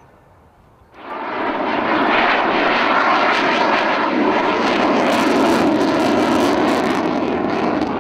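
Loud aircraft engine noise that starts suddenly about a second in and stays strong and steady, with a crackly edge in the middle.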